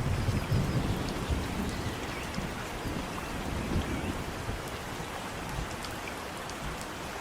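Steady rain falling, with scattered drops ticking close by, over a low rumble of thunder that is strongest in the first second or so and dies away about four seconds in.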